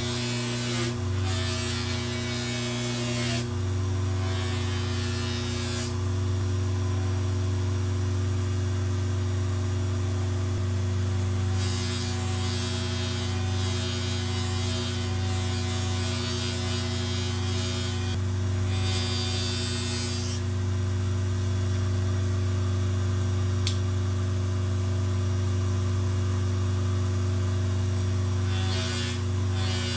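Bench polishing machine's motor running steadily at high speed, about 7,000 RPM, with a constant hum, while a knife blade is buffed against its polishing wheel in repeated passes that add stretches of hissing, rubbing noise that start and stop every few seconds.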